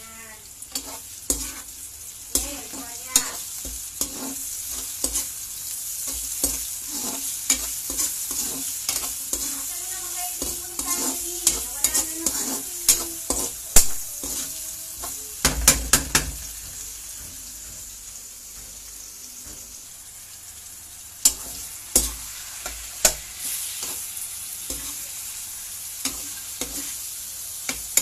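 Minced garlic and onion sizzling in hot oil in a nonstick wok, stirred with a spatula that scrapes and clicks against the pan at irregular moments. A cluster of louder knocks from the spatula comes a little past halfway.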